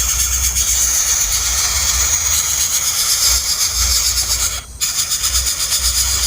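Hungry nestlings begging: a dense, continuous high-pitched hissing chatter over a low rumble, dipping briefly near the end.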